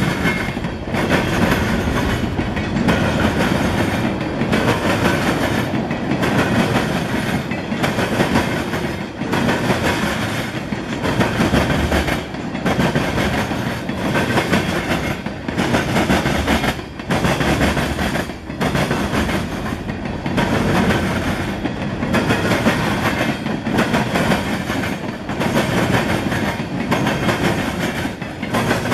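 Freight train rolling past, boxcars and then a long string of tank cars, its wheels clacking in a steady repeating rhythm with short dips every second or two.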